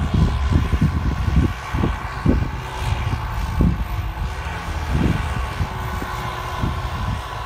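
Tractor diesel engine running hard under load, with a steady high whine from the turbo and irregular heavy low thumps through the rumble.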